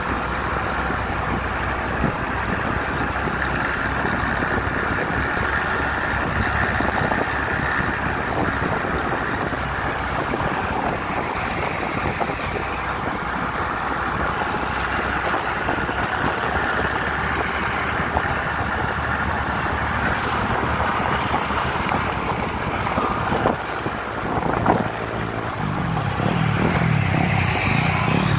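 Steady road-vehicle noise: engine and road sound running throughout. A few knocks come about 24 seconds in, and a louder, deeper engine sound builds near the end.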